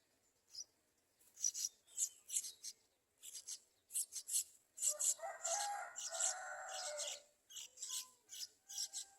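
Yellow-vented bulbul nestlings begging for food: quick runs of short, high, scratchy chirps, with a longer, lower raspy begging call lasting about two seconds from about five seconds in.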